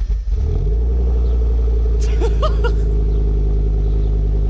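Audi RS6 Avant's twin-turbo V10 starting up, catching at once and settling into a loud, steady idle heard at the exhaust tips.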